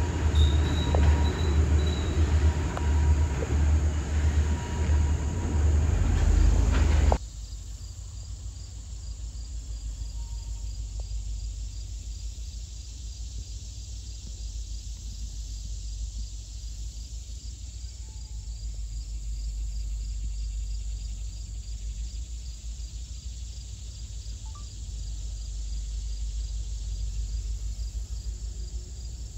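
Railroad cars rolling past with a rhythmic clatter of wheels, cut off suddenly about seven seconds in. After that, quiet trackside background with crickets chirping in a steady high pulse.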